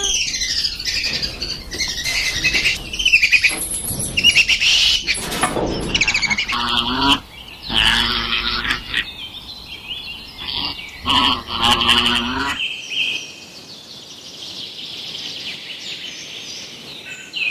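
Birds chirping and twittering in many short, high calls. A few louder, lower-pitched calls break in midway.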